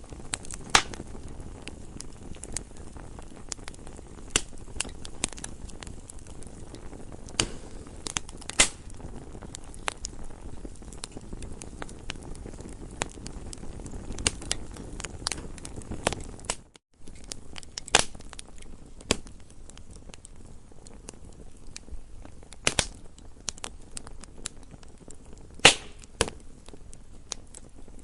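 Campfire crackling: irregular sharp pops and snaps of burning wood, a few much louder than the rest, over a steady low rush of flames. The sound drops out for a split second about two-thirds of the way through.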